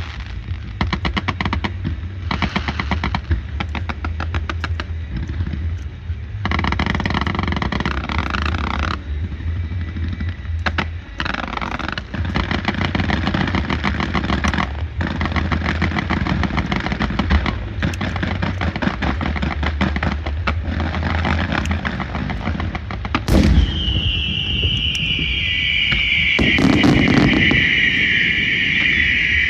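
Firecracker strings going off in long, rapid crackling volleys over a steady low hum. Near the end comes a loud bang, followed by a loud firework whistle sliding down in pitch.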